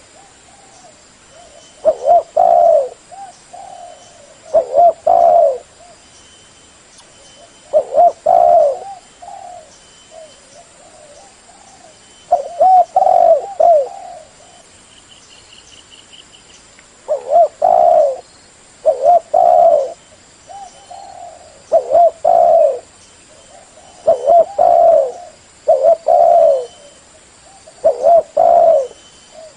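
Spotted dove cooing loudly, its low rolling coo phrase repeated about a dozen times, one every two to three seconds with short pauses between.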